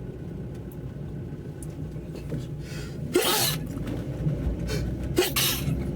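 Steady low road and engine rumble of a moving car on a wet road, with short hissing bursts about three seconds in and again near the end.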